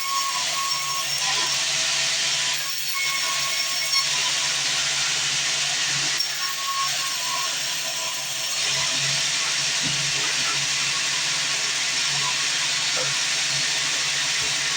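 Sawmill band saw running through wood, a steady hissing rush with a faint steady whine, the noise swelling a little three times.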